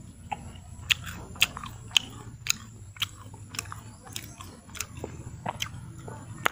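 A person chewing crunchy food close to the microphone, with sharp crunches about twice a second.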